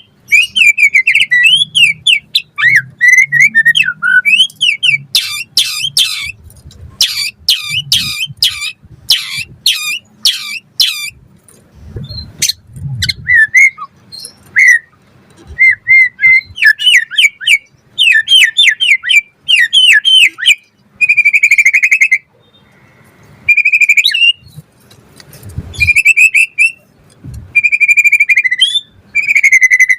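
White-rumped shama (murai batu) singing a varied song of loud whistled phrases, with a run of harsh, rattling notes about two a second from about five to eleven seconds in.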